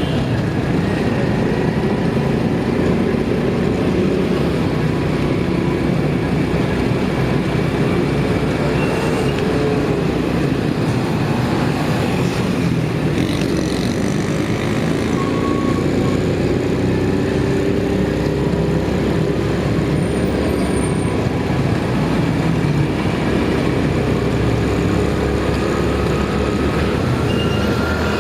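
Steady rumble of city street traffic and vehicle engines, heard while riding along the road.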